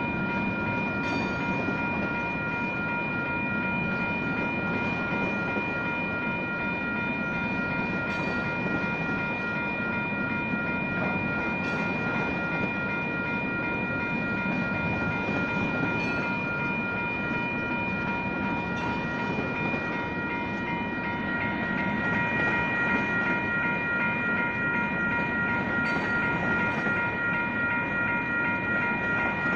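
Two WCH Type 1 mechanical railroad crossing bells ring rapidly and continuously over the rumble and wheel clatter of a San Joaquin Valley Railroad train rolling through the crossing. There are occasional sharp clicks of wheels over rail joints, and the passing train grows a little louder about two-thirds of the way through.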